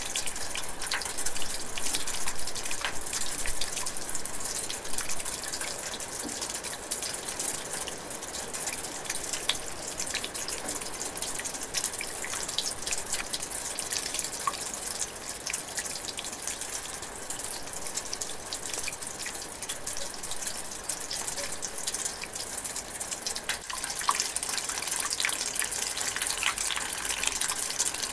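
Light rain drizzling, a steady hiss with many separate drops ticking throughout.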